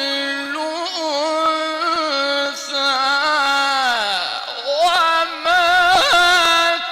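Quran recitation in a melodic, chanted style by a single high voice, holding long ornamented notes. About four seconds in, the voice glides down, then climbs back to a held, wavering note.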